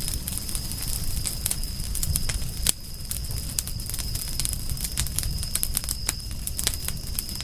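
Wood fire crackling, with irregular sharp pops over a low rumble, the loudest pop about two and a half seconds in. A steady high-pitched tone runs under it.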